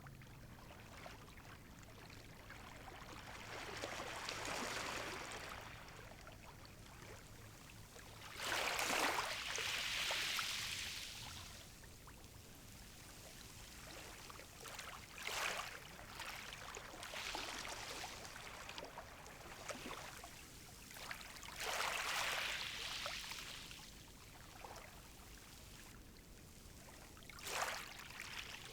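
Calm sea waves washing in, one soft swell of surf every few seconds over a steady low rumble, the largest about nine seconds in.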